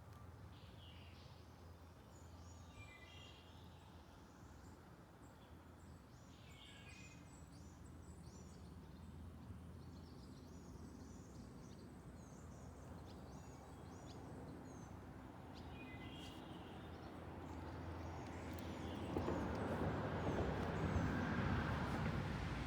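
Small birds chirping and calling on and off over a steady low hum. Near the end a broad rushing noise swells up and becomes the loudest sound.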